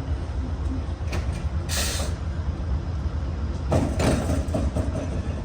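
VIA Rail passenger train standing at the platform, its diesel locomotive idling with a steady low rumble. There is a short hiss about two seconds in and a louder burst of noise near four seconds.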